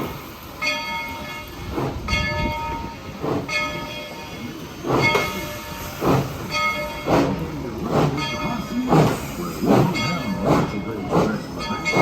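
Tweetsie Railroad #190, a narrow-gauge 2-8-2 steam locomotive, working with its exhaust chuffing, the beats coming faster as it gathers speed. A bright ringing tone repeats about every second and a half through the first half.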